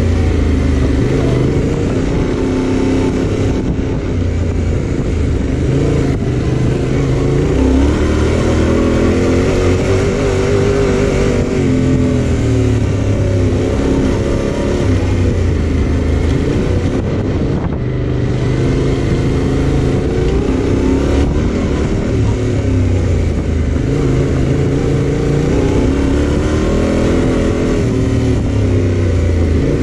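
Yamaha Ténéré 700's parallel-twin engine running under way, its pitch rising and falling with the throttle, over a steady rush of wind and road noise.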